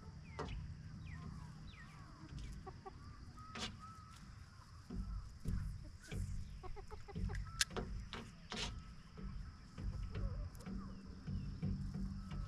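Chickens clucking on and off, with scattered sharp clicks.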